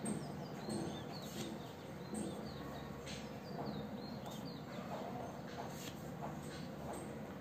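Small birds chirping in the background, many short falling chirps a few times a second, over a steady low hum. There is faint scratching from a ballpoint pen drawing lines on paper.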